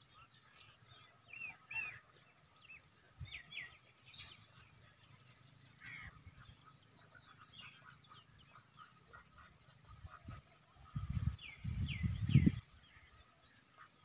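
Short, high, hooked bird chirps repeated every second or two against a faint outdoor background. The loudest sound is a burst of low rumbling noise about eleven seconds in, lasting a second or so.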